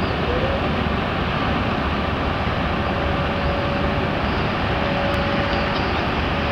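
Steady low rumble of a ship under way, its engines and hull running evenly, with a faint steady hum that comes in about halfway through.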